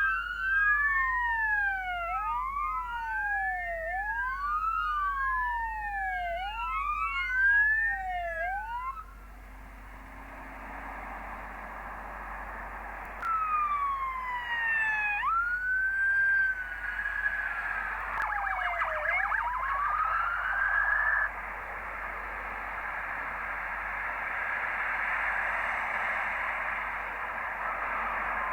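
Police car sirens wailing, sweeping up and down about every two seconds with a second siren overlapping, for the first nine seconds. After that comes a steady rushing noise of passing traffic, with single siren sweeps rising and falling over it.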